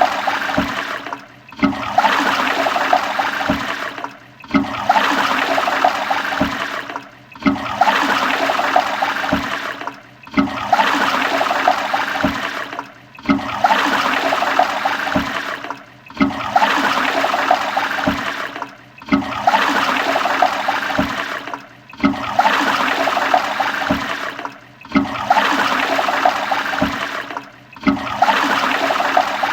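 Toilet flushing: a rush of water with gurgles and low knocks. The same short stretch of flush repeats about every three seconds, each one cutting off abruptly into a brief dip before the next begins.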